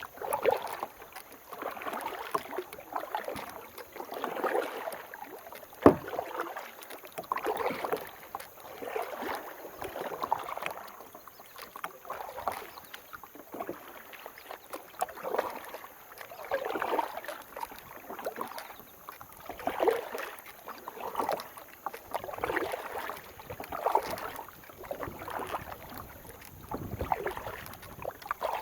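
Kayak paddle strokes splashing through river water in a steady rhythm, roughly one every second or so, with a single sharp knock about six seconds in.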